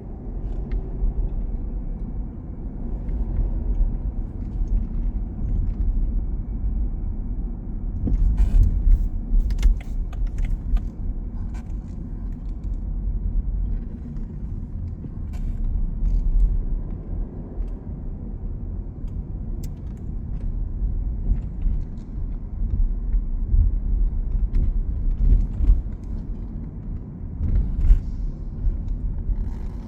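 City road traffic: a steady rumble of cars going by, swelling and fading, with scattered short clicks and knocks.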